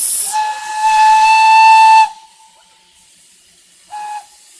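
Steam locomotive whistle, believed to be the 1855 Fairy Queen's: a steam hiss, then one long steady blast of about two seconds and a short toot about two seconds later.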